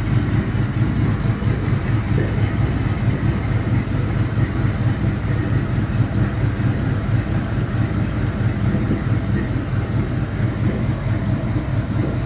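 Chevy 5.3 L Vortec LM7 V8 on an engine run stand, idling steadily while warming up from a cold start.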